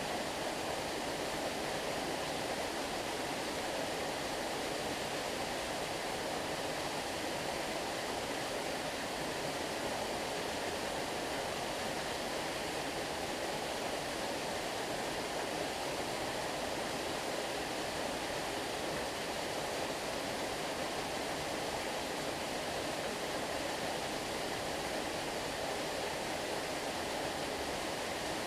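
Stream water flowing: a steady, unbroken rush of moving water.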